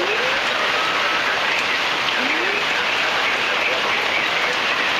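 Heavy thunderstorm rain pouring down in a steady, dense hiss, with the rain driving onto the surfaces around the microphone. Two faint short rising tones show near the start and again about two seconds in.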